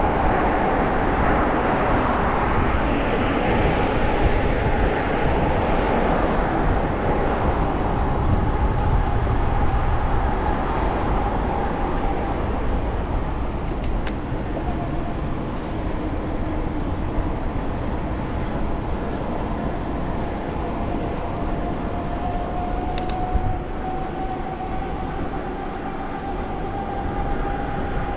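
A car driving along: steady road and tyre noise with a low rumble, and a thin whine that slowly dips and rises in pitch.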